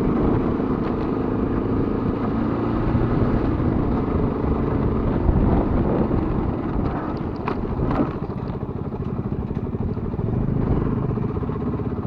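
Motorcycle engine running steadily while being ridden, with a few sharp clicks about seven to eight seconds in.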